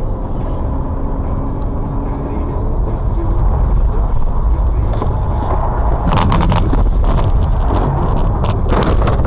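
Car on the road with loud, steady engine and road noise. In the second half a run of sharp knocks and clatter joins it.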